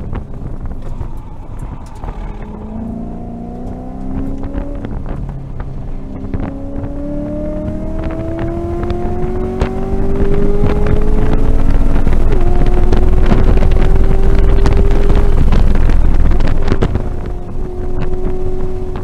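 2018 Camaro SS 1LE's 6.2-litre V8 under hard acceleration on track, heard from inside the cabin. The revs climb steadily, the engine gets louder about ten seconds in and holds high, then eases off near the end.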